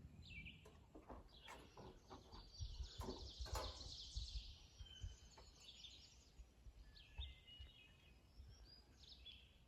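Faint birds chirping, with a low rumble and a few soft knocks.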